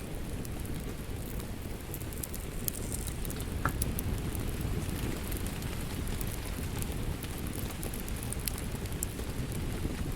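Wood fire crackling in a fireplace: scattered sharp snaps and pops over a steady low rumble of burning.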